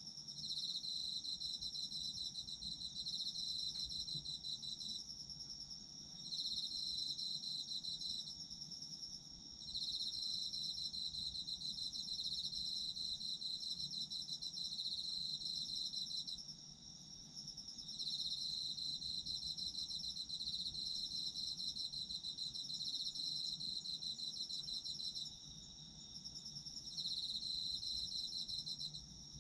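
Autumn crickets calling. One steady high-pitched trill runs throughout, while a second, slightly lower pulsing trill comes in bouts of several seconds separated by short pauses.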